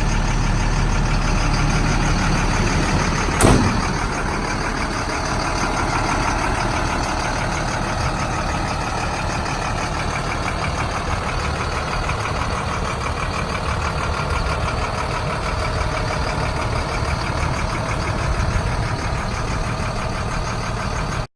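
Cat 3116 turbo diesel engine of an M1078 military cargo truck running steadily, with one sharp clunk about three and a half seconds in.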